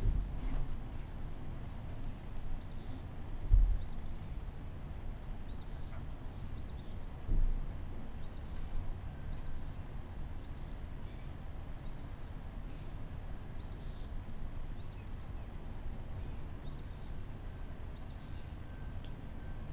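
Outdoor morning ambience with a small bird chirping over and over, about once a second, above a steady high hiss. Two low thumps, about three and a half and seven and a half seconds in, are the loudest sounds.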